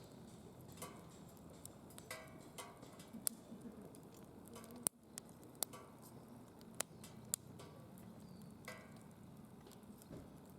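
Wood fire burning in a secondary-combustion fire pit, crackling with irregular sharp pops over a low steady hiss, the loudest pop about five seconds in.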